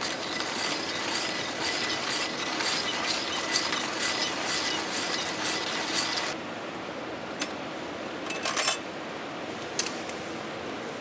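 Steady rain noise, with a denser crackling hiss over the first six seconds that cuts off suddenly, followed by a few light clicks and clinks.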